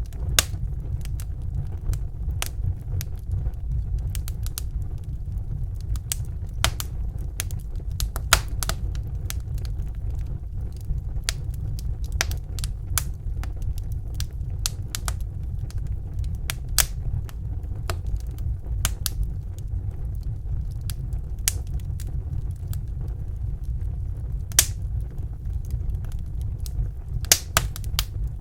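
Wood fire in a fireplace crackling, with sharp pops at irregular intervals, over a steady low rumble.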